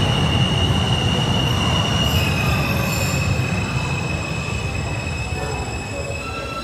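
New York City subway train running through the station, its steel wheels squealing in a high, steady tone over a low rumble; the squeal drops slightly in pitch about two seconds in.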